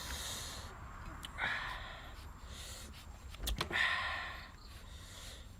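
Several short, breathy mouth and breath sounds from a person, a second or so apart, with the longest about four seconds in.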